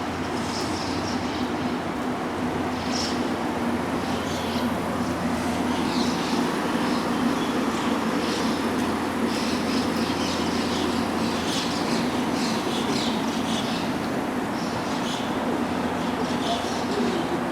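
Steady hum of an electric train at a station platform, with short high chirps scattered over it.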